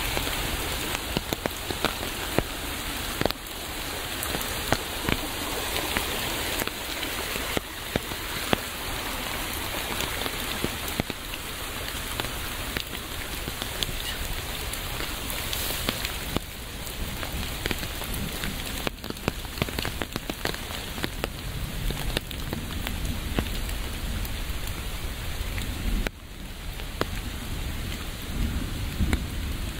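Steady heavy rain, with many close drops pattering and a low rumble of thunder underneath. The level drops suddenly about 26 seconds in, then builds again.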